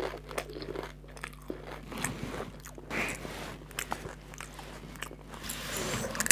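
Crisp fried fuchka (pani puri) shell being crunched and chewed, with many small crackly clicks. Right at the end comes a sharper crack as a fresh hollow puri shell is broken open with a finger.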